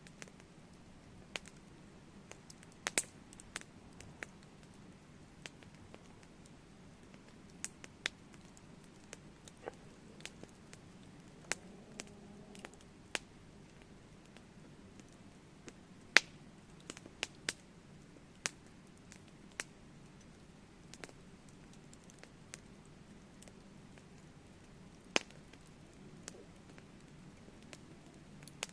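Campfire crackling: irregular sharp pops and snaps over a low, steady hiss, with a few louder pops about three seconds in, in the middle and near the end.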